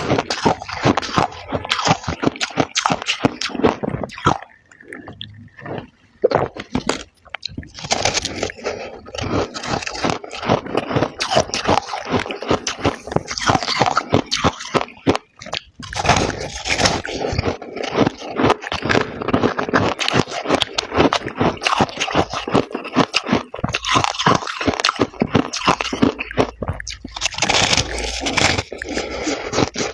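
Freezer frost being bitten and chewed, a dense, irregular crunching with some scraping, with short lulls about five seconds in and again about halfway.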